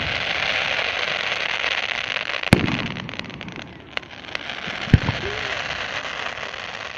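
Fireworks crackling densely, with two sharp bangs, one about two and a half seconds in and another about five seconds in.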